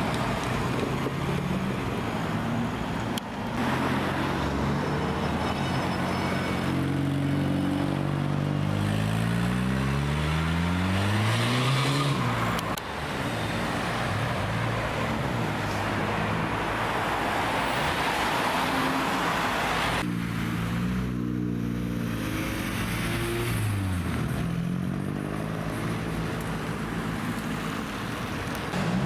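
Modified cars' engines and exhausts as they drive in one after another, the engine note climbing and dropping as they rev and accelerate. A long rising engine note builds through the first half, and another car rises and falls in pitch later on.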